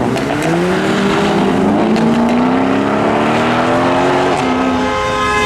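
A modified car's engine revving hard as it accelerates away, its note climbing steadily for about four seconds, then dropping briefly at a gear change before running on at a higher pitch.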